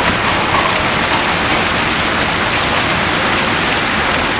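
Heavy hail and rain coming down hard in a wind-driven storm: a loud, steady, dense hiss of countless impacts with faint scattered ticks.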